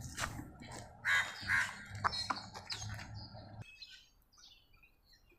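Three or four short, loud animal calls between about one and two and a half seconds in, over a low steady hum that cuts off suddenly near the middle.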